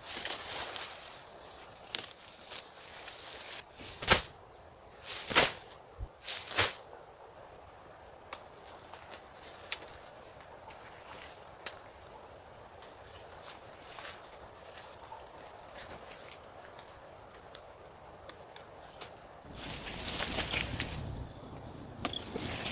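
Insects trilling in a steady high-pitched, fast-pulsing drone, with a second, lower trill that stops near the end. Three sharp knocks come a little over a second apart, about four to seven seconds in.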